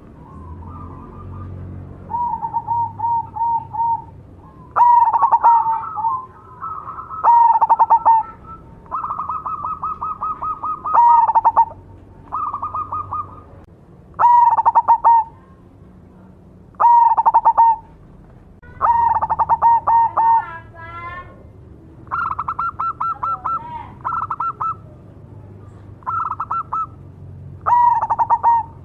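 Zebra dove (perkutut) singing: repeated phrases of rapid staccato cooing notes, a new phrase every two to three seconds, some pitched a little higher than others. A brief wavering call cuts in about twenty seconds in.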